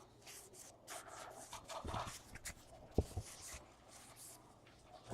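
Topps Heritage baseball cards being flipped through by hand: faint sliding and rubbing of card stock against card stock, with a sharp tap about three seconds in.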